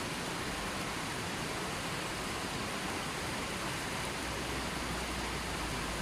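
A river flowing steadily, a continuous even rush of water.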